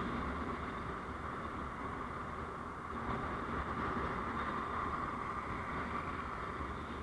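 Steady road and engine noise of a moving vehicle, holding even throughout with no sudden events.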